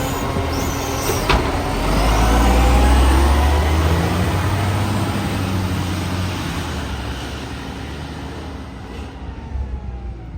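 Garbage truck's diesel engine, a truck with a leaking exhaust, pulling away: the engine note swells about two seconds in and then fades as it moves off. A brief sharp sound about a second in.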